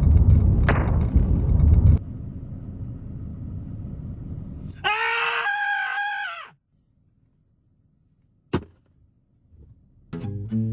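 Low vehicle rumble, loud for about two seconds and then quieter, broken about five seconds in by one long scream of frustration lasting under two seconds. Then near silence with a single sharp click, and guitar music starting near the end.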